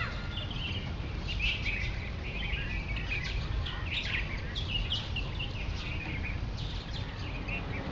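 A flock of many small birds chirping continually, quick short calls overlapping one another, over a steady low rumble.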